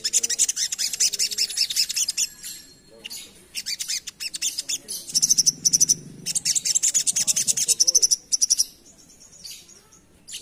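Sogok ontong (sogon) sunbird singing a rapid, high-pitched twittering song in long fast runs of notes, with a short lull a couple of seconds in and sparser notes near the end.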